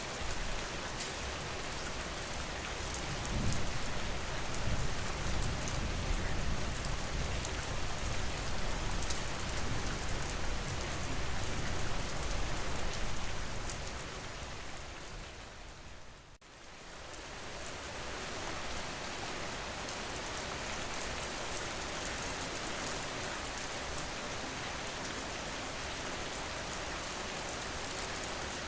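Steady recorded rain falling on a surface, with a deeper low rumble under it for the first half. About sixteen seconds in, the rain fades out briefly and comes back, like the seam of a looped rain track.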